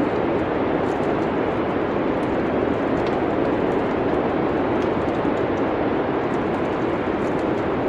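Steady wind noise of a winter snowstorm ambience, with faint scattered crackles from a wood fire.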